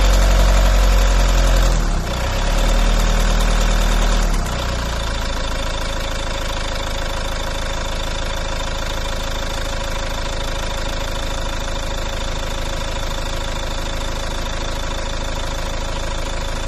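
Volvo V50 engine revved twice, each time dropping back, then idling steadily with constant whining tones over the idle. This is the strange engine noise the owner is asking about.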